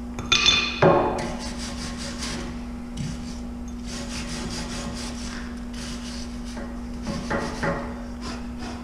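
Metalwork on a steel tractor bucket: a ringing metallic knock about half a second in, then a steady scratchy crackle with a low hum underneath, and another knock near the end.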